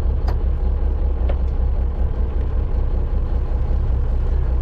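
Fishing boat's engine running steadily: a constant low drone with a faint steady hum above it and two small clicks in the first second and a half.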